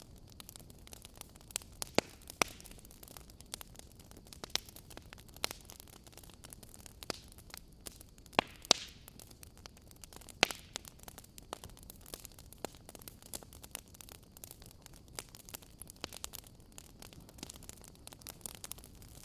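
Wood fire burning in a fireplace: a steady low hiss broken by irregular crackles and pops, a few sharper snaps about two, eight and ten seconds in.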